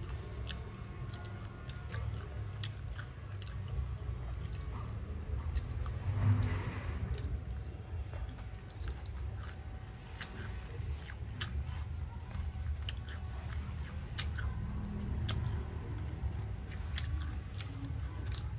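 Close-up chewing and biting of mango salad with dried fish, with many sharp, irregular crunchy clicks and one louder burst about six seconds in.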